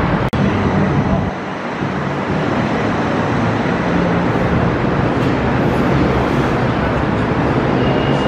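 Gold Line automated people-mover train at an elevated station platform: a steady hum and rumble of the train and station, broken by a brief dropout about a third of a second in.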